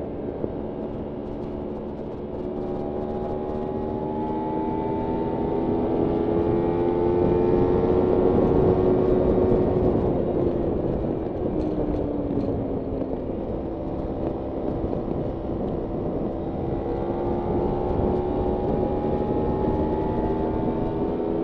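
Kawasaki Ninja 300's parallel-twin engine running under way. Its note climbs slowly to its loudest about eight seconds in, drops away over the next few seconds as the throttle closes, then holds and climbs gently again near the end.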